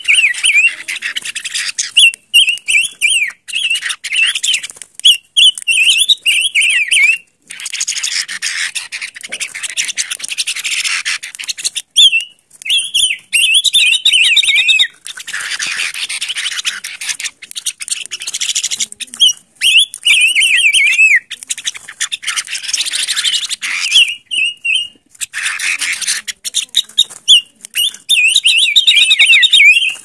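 Silver-eared mesia calling: repeated short, quickly wavering phrases, with noisier stretches of calling between them. The sound breaks off abruptly several times.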